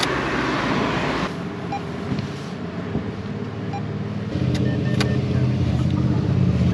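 A vehicle engine running steadily nearby amid street noise, its low hum growing stronger a little past the middle, with a few faint short beeps and clicks.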